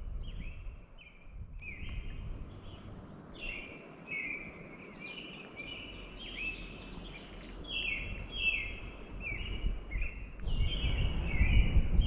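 A bird calling over and over in a steady run of short, falling chirps, about two a second, with a low rumbling noise that gets louder near the end.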